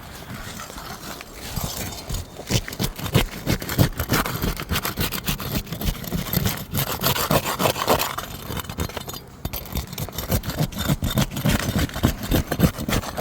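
Metal pry bar scraping and prying under 3-tab asphalt shingles, working them loose. It is a dense, irregular run of scrapes and crackling clicks, louder from about two seconds in.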